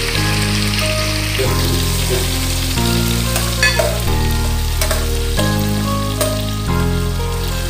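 Chicken wings sizzling as they stir-fry in an aluminium wok, with a few sharp clicks about halfway through. Slow background music with sustained chords changing every second or so plays throughout.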